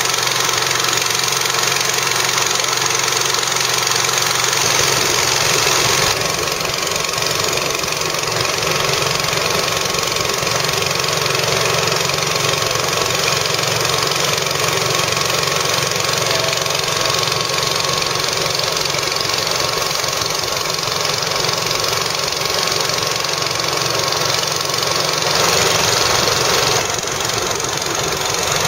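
An engine running steadily, with a small change in its sound about six seconds in and again near the end.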